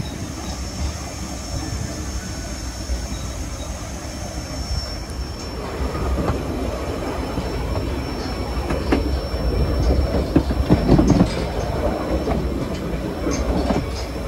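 Narrow-gauge passenger train rolling along the track: a steady low rumble of the cars and wheels with a thin, high, steady squeal, turning into a busier, louder clatter of wheels over the rails from about six seconds in.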